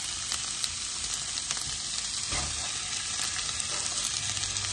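Chopped onion, garlic and chili frying in oil in a large frying pan: a steady sizzle with small scattered crackles.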